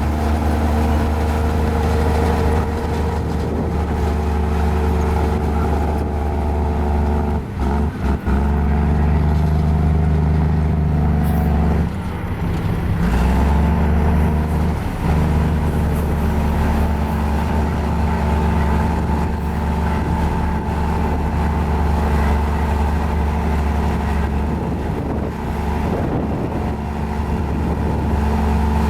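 Mini Komatsu bulldozer's diesel engine running steadily while pushing, with brief dips in its note about eight and twelve seconds in.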